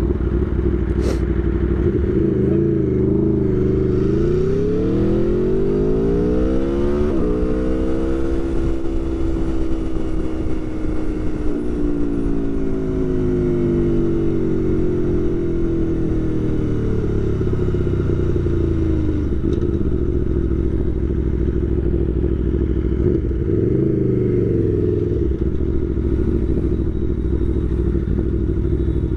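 Aprilia Tuono V4 1100 Factory's V4 engine under way: it revs up about four seconds in, then winds slowly down over some ten seconds, with a shorter rise and fall near the end. Heard from inside the rider's helmet over a steady low wind rumble.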